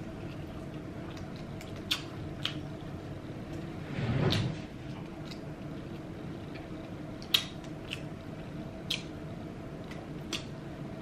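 Close-miked chewing of fried fish: sparse sharp clicks and wet mouth smacks, with one longer, louder rustling swell about four seconds in, over a low steady hum.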